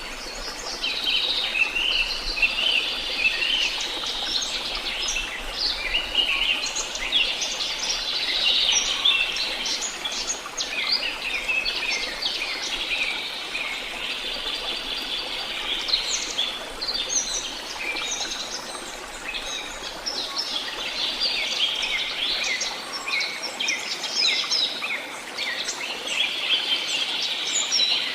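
A chorus of songbirds chirping and trilling over one another without a break, over a faint steady background hiss.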